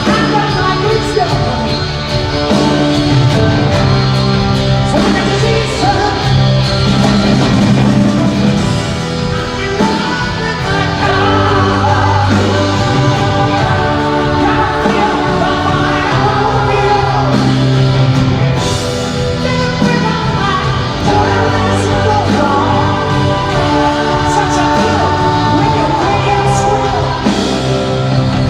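A rock band playing live in an arena, with a lead vocal over guitars, bass and drums, recorded from the audience.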